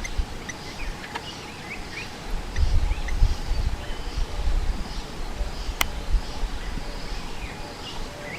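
Bush ambience: many short bird chirps and calls over a faint insect hum, with some low rumbles a few seconds in and a single sharp click past the middle.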